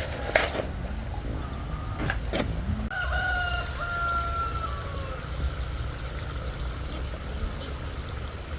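A rooster crows once, one long call of about two seconds that falls slightly at the end, over a steady low hum. Two sharp knocks come before it.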